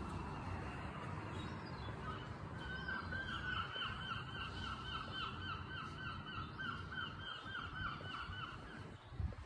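A bird calling a long, even series of short repeated notes, about three a second, starting about two and a half seconds in and lasting some six seconds, over a steady low background rumble.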